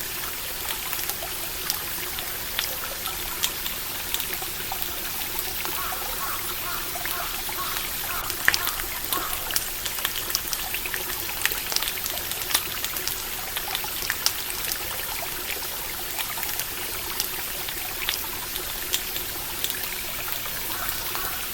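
A stream trickling steadily, with a campfire crackling in short, sharp pops scattered all the way through.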